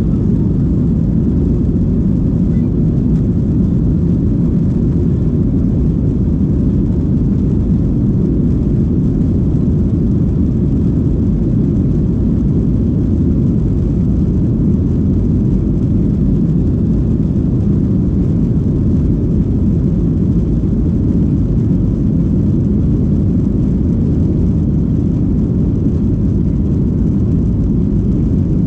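Steady low rumble of a Boeing 737-800's CFM56 jet engines and airflow heard from inside the passenger cabin, with no change in level.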